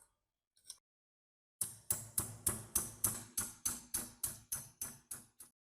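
A quick run of about fourteen sharp, evenly spaced taps or strokes, three to four a second, lasting about four seconds, after a single click at the start and a small one shortly after.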